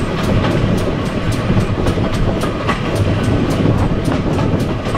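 Steam-hauled passenger train running along the line, heard from an open carriage window: wheels rumbling on the rails, wind buffeting the microphone, and a steady rhythm of sharp beats about four a second.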